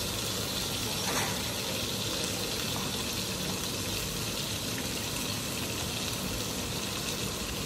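Beef slices and carrots frying in stainless steel pans, a steady sizzling hiss.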